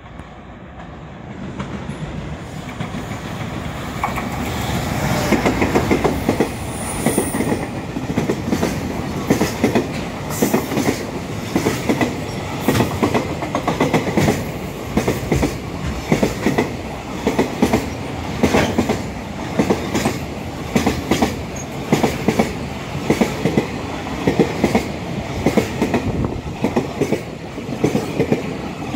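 JR Freight freight train hauled by an EF210 electric locomotive approaching and running past, growing louder over the first few seconds. A long string of container flatcars then rolls by, the wheels clickety-clacking over the rail joints in regular clusters, about one every second.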